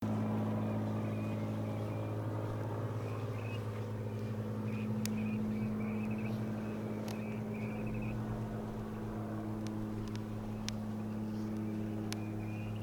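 Campfire crackling with sparse sharp pops, over a steady low hum and a faint wavering high whistle.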